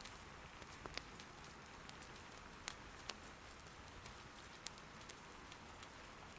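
Faint, steady patter of soft rain, with the odd sharp pop of firewood crackling in an irori hearth; four louder pops stand out over a few seconds.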